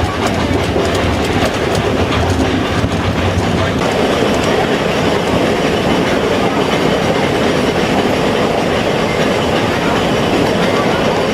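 Mount Washington Cog Railway train running: a loud, steady rumble and clatter.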